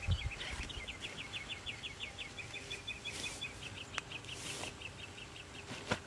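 A small songbird calling a long run of quick, repeated short chirps, about six a second, fading toward the end. A sharp click about four seconds in and a couple of brief rustles are heard as well.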